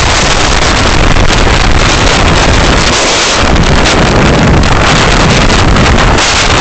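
Steady, loud rushing road and wind noise from a moving car, picked up by a dashcam's microphone, with a low engine and tyre rumble underneath.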